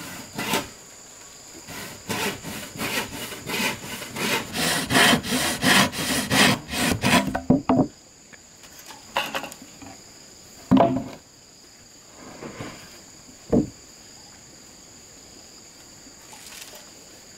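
Wood being sawn by hand in quick back-and-forth strokes, which stop about halfway through. A few single knocks of wood follow, with insects buzzing steadily in the background.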